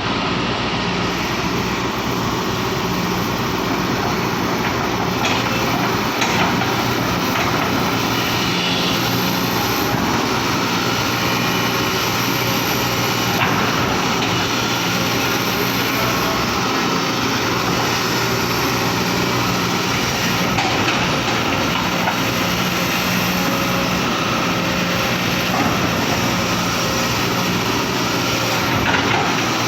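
Excavator's diesel engine running steadily during an engine test, a continuous loud drone with a few brief knocks.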